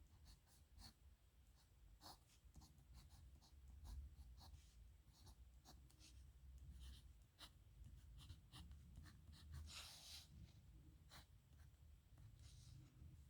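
Metal dip-pen nib scratching on paper in many short, quick strokes, with one longer stroke about ten seconds in; faint, over a low steady hum.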